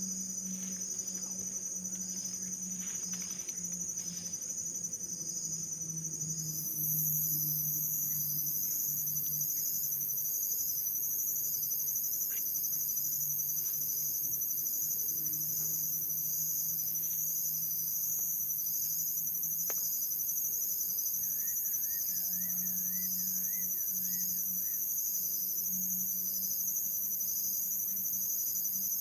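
A chorus of insects calling steadily with a fast pulsing trill. A louder, higher-pitched insect joins about seven seconds in and carries on.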